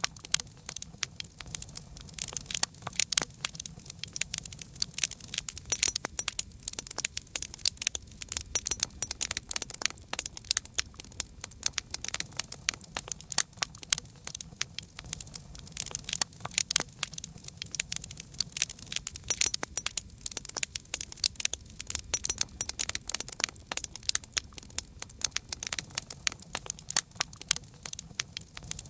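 Campfire crackling steadily, with many sharp pops and snaps from burning wood throughout.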